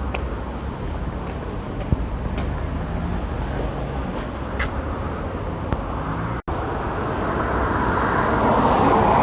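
Busy main-road traffic: steady tyre and engine noise of passing cars, growing louder near the end as a vehicle comes closer.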